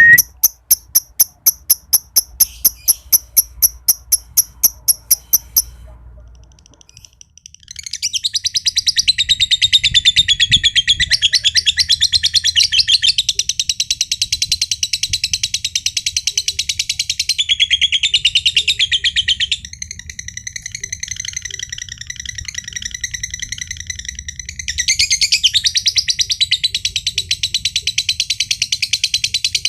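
Green standard (josan) lovebird first giving a run of sharp ticks, about four a second, then, after a short break, going into a long, unbroken rapid chattering trill, its 'ngekek' song. The chatter drops back for a few seconds in the second half, then comes on strong again.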